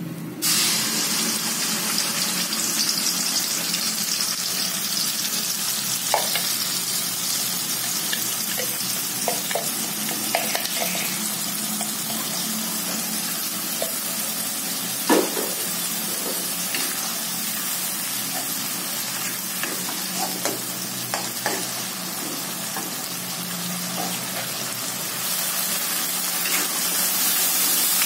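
Blended spice paste hitting hot oil in a wok: a sudden loud sizzle as it goes in, then steady frying hiss. A few clicks of the metal spatula against the wok come through, and the sizzle grows louder again near the end as the paste is stirred.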